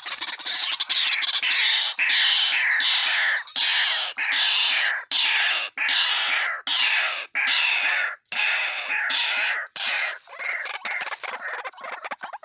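White-breasted waterhen calling: a loud, continuous run of harsh, rasping calls repeated in quick succession, with a few brief breaks.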